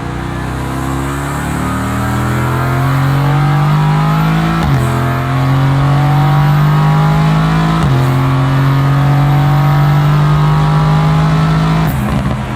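Mercedes-AMG GT S twin-turbo V8 accelerating hard through the gears: the revs climb steadily, drop sharply with an upshift about a third of the way in and another about two thirds in, and climb again each time. Near the end the driver lifts off and the revs fall away.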